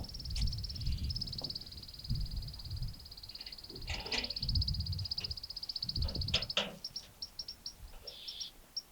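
Animal calls: a high, fast-pulsing trill held for about seven seconds, then breaking into short separate chirps. A few louder calls come about four and six seconds in, over low rumbling.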